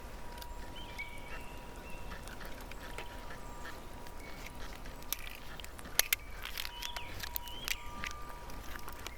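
Birds chirping and whistling in short calls, over a steady thin high tone and a low rumble, with a sharp click about six seconds in.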